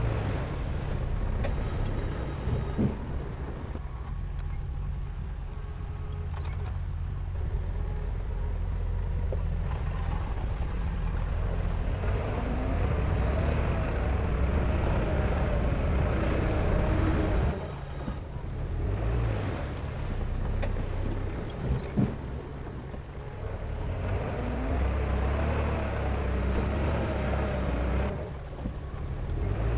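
Heavy diesel machinery engine running and working, its note rising and falling with the load, with a few sharp knocks, the clearest about 22 seconds in.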